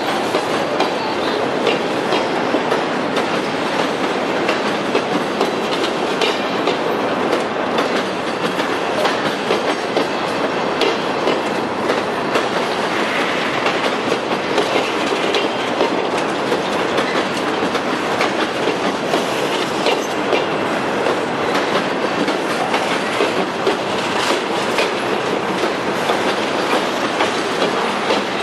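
Freight cars of a long, slow-moving train rolling past close by: a steady, loud rumble of steel wheels on rail with scattered clicks from wheels crossing rail joints.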